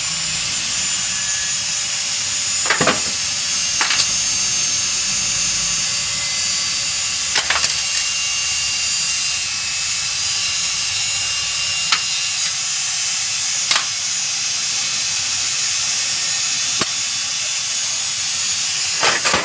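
Steady hiss with about seven sharp, scattered clicks and knocks, like hand tools striking metal parts during engine work.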